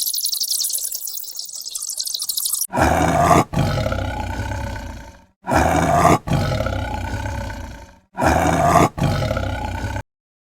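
A big cat roaring three times in a row, each roar long and loud with a short break near its start. Before the first roar there is a high-pitched hiss that cuts off suddenly.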